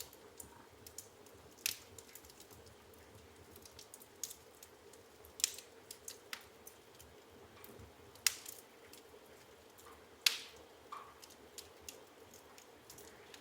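Burning firewood in an open fireplace crackling: irregular sharp pops and snaps, a few louder cracks among many small ticks, over a faint steady hiss of the flames.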